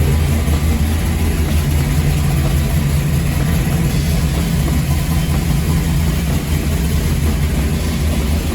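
Mopar 400 big-block V8 running steadily on an engine dyno, warming up before a test pull.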